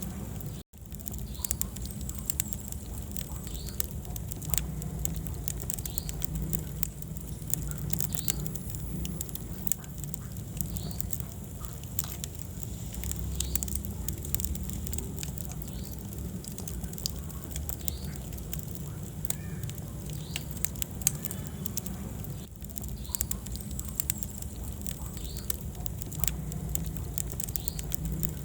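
Wood fire in a fireplace crackling, with frequent sharp pops and snaps over a low steady rumble of burning flames. The sound cuts out for an instant about a second in.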